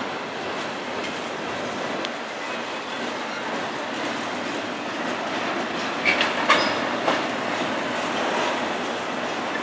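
Double-stack intermodal freight train's container well cars rolling past at trackside: a steady rumble of steel wheels on rail. About six seconds in comes a short cluster of sharp metallic clanks with brief ringing squeaks.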